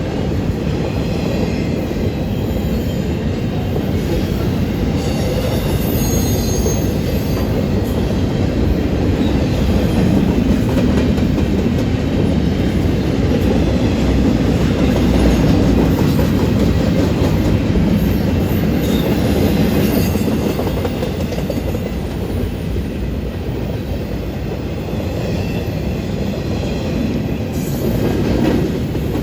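Union Pacific train's cars rolling past on the rails with a steady clatter of wheels on track, and a faint high wheel squeal now and then.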